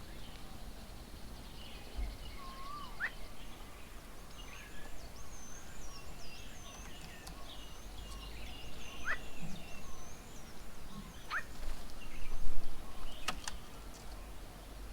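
Several birds calling around a garden bird table: a high, quickly repeated warbling phrase, scattered chirps and a few short rising whistles. Two sharp clicks sound near the end, over a low rumble that swells shortly before them.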